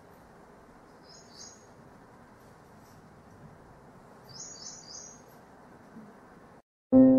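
Small birds chirping, two short runs of quick high chirps about three seconds apart, over a faint steady room hiss. Near the end the sound cuts out briefly and piano music begins.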